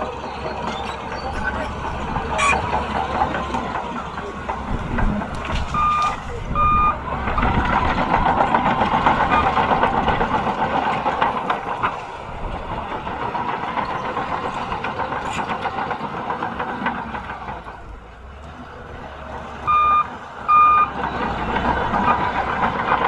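Bulldozer's diesel engine running steadily under load, its reversing alarm giving two short beeps about 6 seconds in and two more near the end.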